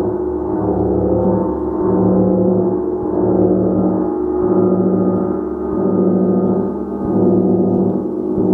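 Gong played continuously into a sustained, shimmering wash of overlapping tones. It swells and eases about once a second.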